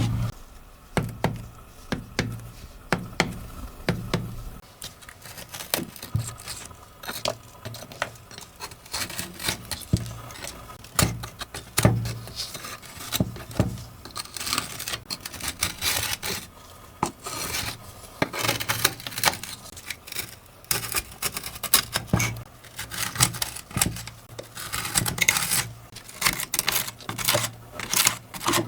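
Scraping and rubbing on a very dirty computer keyboard during cleaning, with many irregular sharp clicks and taps, growing busier past the middle.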